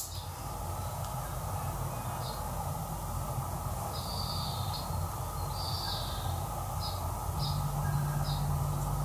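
Birds chirping, short high calls about once a second, over a steady background hum; a low steady drone comes in near the end.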